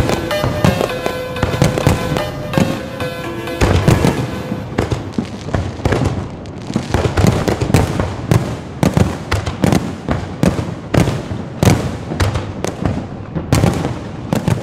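Music with held notes for the first few seconds, then an aerial fireworks display: a rapid run of shell bursts and crackling, several sharp bangs a second.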